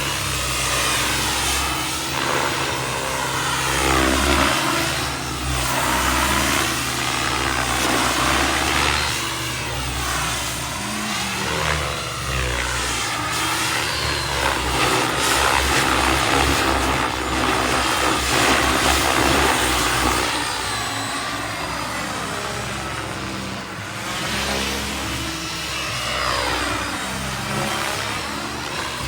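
Radio-controlled helicopter powered by a Wren 45 kerosene turbine, in 3D flight: the turbine and rotor blades run continuously, with the pitch sweeping up and down every few seconds as it manoeuvres.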